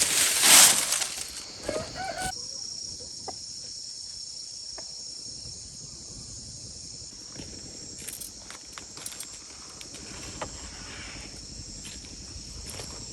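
A loud rustling burst in the first second, then a short cluck from a chicken. A steady high insect drone runs underneath, with a few faint clicks.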